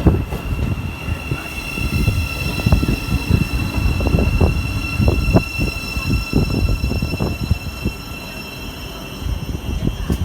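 Train at a station platform, its running making low rumbling and knocking sounds with a steady high-pitched whine or squeal over them that fades near the end.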